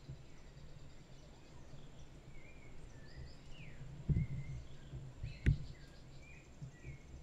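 Wild birds calling with short whistled notes, some falling and some wavering, over a low steady rumble. Two dull thumps come in the second half, the second the louder.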